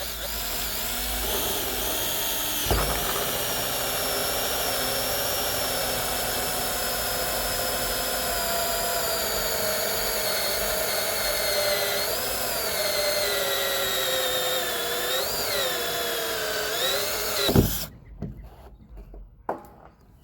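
Power drill running a 1-1/4-inch hole saw through the plastic wall of a 55-gallon barrel: a steady motor whine that sags in pitch a few times under load, then stops suddenly near the end as the saw breaks through and the cut-out plug drops inside.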